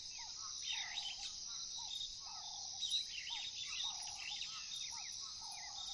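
Savanna dawn-chorus soundscape: a steady high trill of crickets under many birds calling, with one bird repeating a short low warbled phrase about every second and a half among quicker overlapping chirps.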